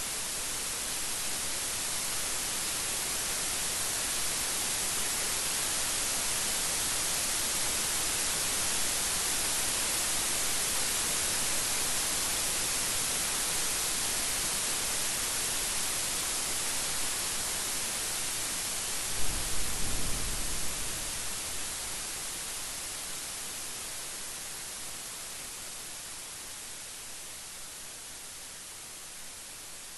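Steady heavy rain that swells and then slowly eases, with a short, sharp burst of thunder about two-thirds of the way through.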